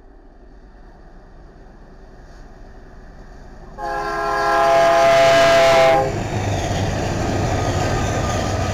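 BNSF freight train approaching with a slowly building rumble, then its diesel locomotive's air horn sounding one chord of about two seconds that drops slightly in pitch as the lead units pass. After the horn, the loud rumble of the locomotives and railcars rolling by.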